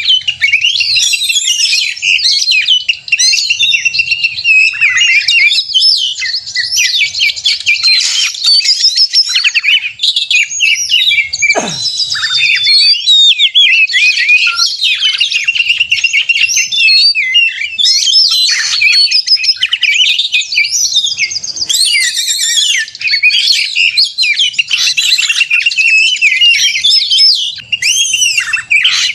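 Oriental magpie-robin singing in full fighting song: a loud, unbroken stream of rapid, varied whistles, chirps and trills. About twelve seconds in, one long note glides steeply down in pitch.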